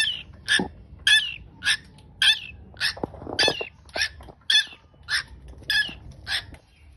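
A bird calling over and over, short high calls about twice a second, with one lower, longer cry about three seconds in.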